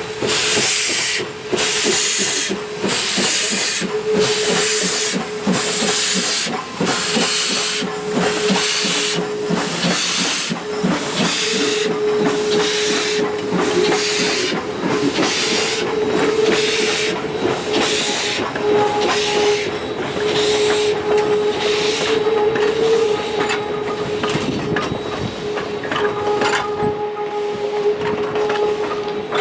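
Western Pacific 165, an Alco 0-6-0 steam locomotive, working under steam: evenly spaced exhaust chuffs, about one and a half a second at first, coming quicker and duller in the second half. A steady high tone with short breaks runs under the chuffs.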